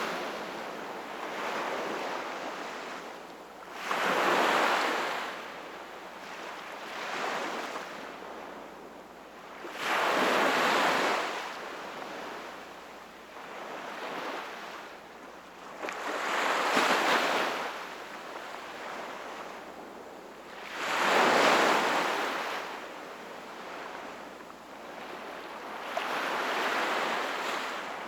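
Sea waves breaking and washing on the shore. Each surge swells and fades every three to four seconds, with larger ones about every six seconds.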